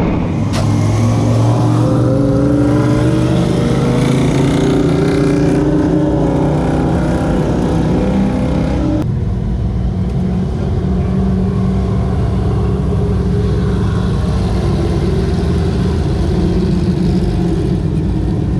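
Dirt modified race car engines running hard, pitch rising and falling as they rev. The sound changes abruptly about halfway through.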